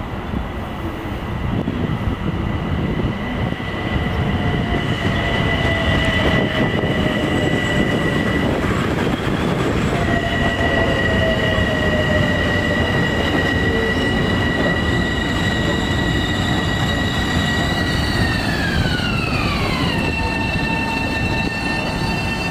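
A train running past with a steady rumble and a high whine that cuts out briefly, then drops in pitch over about two seconds near the end as it goes by.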